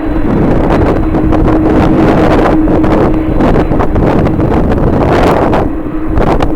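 Strong wind buffeting the microphone in loud, gusting rushes. A steady low hum runs under it, clearest in the first half.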